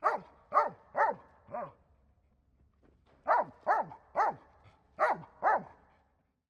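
A domestic dog barking: nine short barks in three bursts, four, then three, then two, each bark dropping in pitch.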